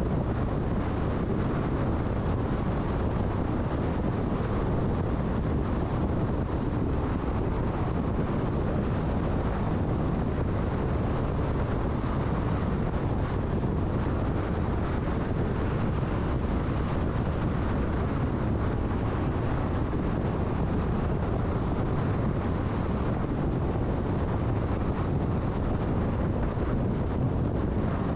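Steady road and wind noise of a car driving at freeway speed, an even rush with no changes.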